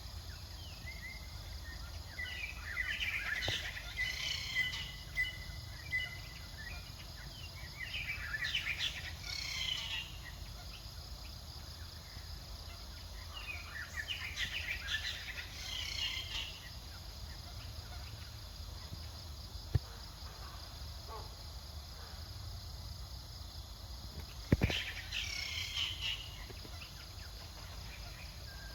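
Birds chirping outdoors in four short bursts of quick high chirps, over steady low background noise. Two sharp clicks stand out, one about two-thirds of the way in and one just before the last burst.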